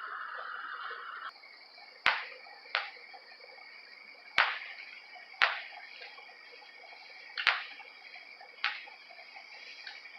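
Firework bangs popping one at a time at uneven intervals, six in all, each sharp with a short echoing tail. A steady hiss cuts off about a second in, and a steady high whine runs underneath.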